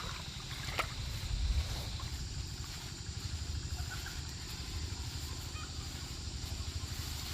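Outdoor rural ambience: a steady low rumble with a few faint, short calls from fowl and an occasional click.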